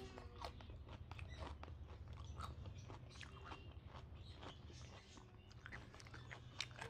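Faint close-up chewing: soft wet mouth clicks and smacks from eating a mouthful of rice and chicken curry.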